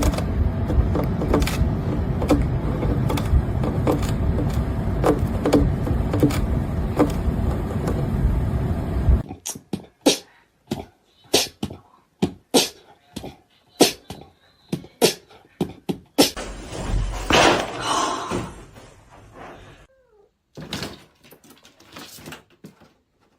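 A domestic cat's sounds. First a steady noisy stretch for about nine seconds, then a run of sharp clicks and knocks with a brief louder burst.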